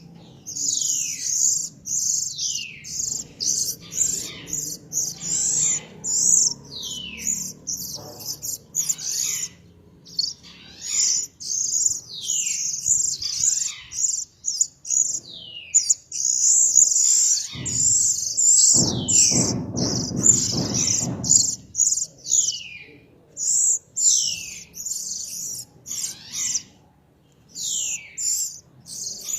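A small songbird singing a fast, continuous run of high chirps and trills, with many notes sweeping quickly downward. About two-thirds of the way in, a low noise sounds under the song for a few seconds.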